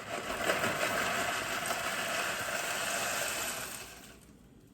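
Dry elbow macaroni poured from its cardboard box into a pot, a steady rattling cascade of many small hard pieces that tails off about four seconds in.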